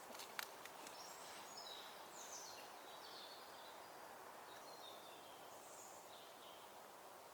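Faint forest ambience with small birds calling: several short, high chirps and falling call notes, most between about one and four seconds in, with a couple of fainter ones near six seconds. A few sharp clicks sound right at the start.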